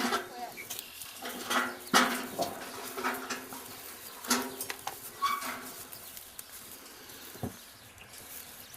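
Goats bleating, about five short calls one after another, then a single sharp knock near the end.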